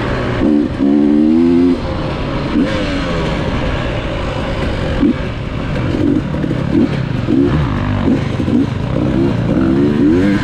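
Dirt bike engines revving, with one longer, louder rev about a second in, then repeated short throttle blips that rise and fall in pitch.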